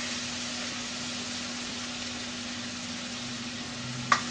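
Fish pieces in spicy sauce sizzling in a wok: a steady frying hiss over a low steady hum. A single sharp metal clack comes about four seconds in, the spatula striking the wok.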